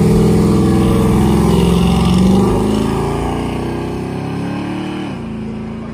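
A car's engine revving hard as it accelerates away, its pitch climbing for about two seconds and then fading as it pulls off down the road, with a sudden drop in pitch near the end.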